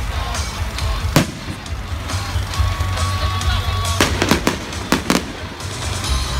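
Fireworks display: a single sharp bang about a second in, then a quick run of several bangs between four and five seconds, over a steady low rumble.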